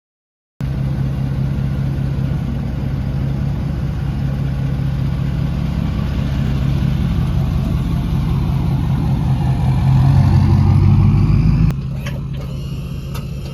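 Boat motor running steadily under way, its pitch and level rising about ten seconds in, then cut back abruptly about two seconds later.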